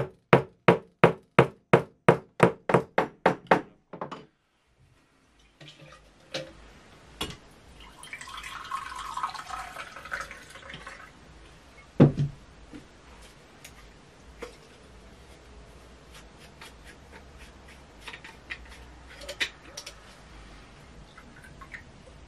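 Rapid, even taps of a plastic-faced mallet setting a rivet in a leather strap on a wooden block, about four a second for roughly four seconds. After a pause, liquid is poured from a carafe into a mug for a few seconds, followed by one sharp knock.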